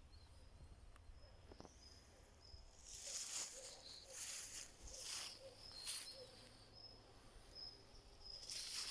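Footsteps through dry autumn leaves on a forest floor, a crunching rustle about every half second starting a few seconds in, pausing, then resuming near the end.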